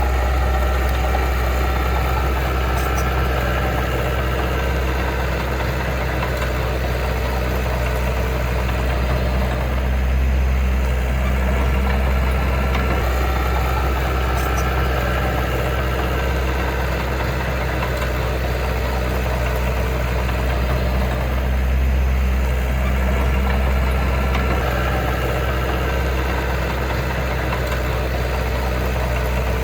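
Heavy diesel engine of earthmoving equipment running steadily at low revs, its level swelling slightly now and then.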